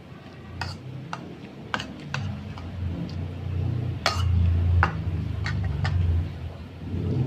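Close-miked eating of balut: chewing with about eight sharp clicks and crunches, over an uneven low rumble that swells in the middle.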